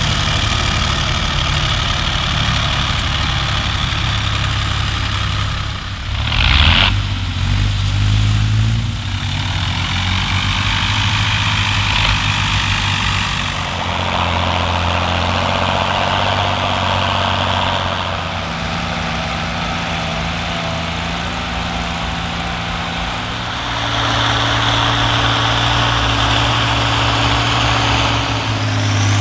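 Diesel engines of heavy farm machinery running steadily, the sound changing abruptly several times as different machines take over. There is a short loud rush of noise about six and a half seconds in.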